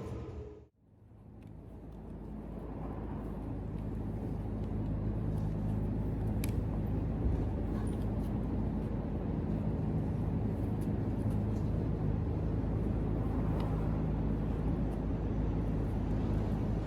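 Steady low vehicle rumble with a faint hum, fading in over the first few seconds and then holding even.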